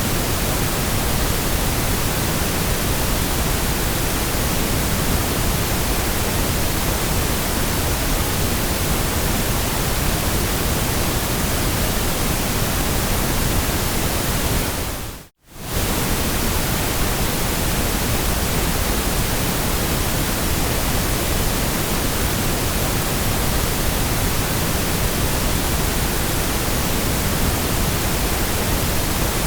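Steady, even hiss of synthetic white noise spread across all pitches. About halfway through it fades out almost to silence and comes straight back within about half a second.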